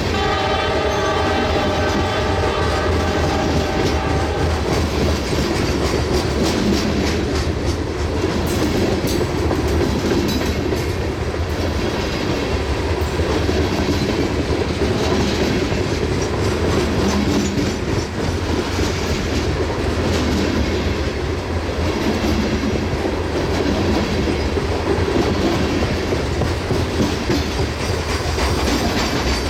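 A loaded coal train rolls past: steady rumble and clickety-clack of freight car wheels over the rail joints. A train horn sounds a steady chord for the first four seconds or so, then stops.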